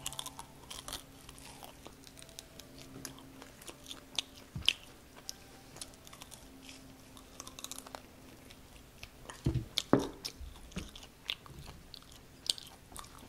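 Close-miked biting and chewing of saucy Korean fried chicken: crunches and wet mouth clicks, with a louder cluster of crunches about ten seconds in.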